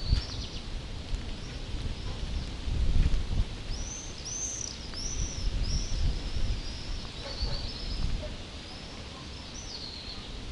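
A bird calls a run of high, arched chirps about twice a second, over the low, uneven buffeting of storm wind on the microphone.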